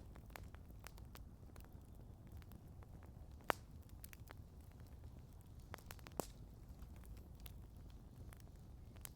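Wood campfire crackling: scattered small snaps and pops, with a sharp pop about three and a half seconds in and another near six seconds, over a low rumble.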